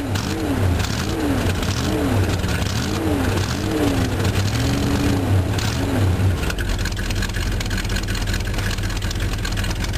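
1967 Dodge pickup's big-block V8 running cold, revved in a quick series of short throttle blips for about six seconds, then settling to a steadier idle. It is a little cold-blooded when cold.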